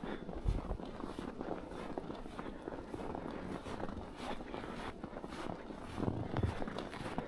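Footsteps in snow at a steady walking pace, about two steps a second.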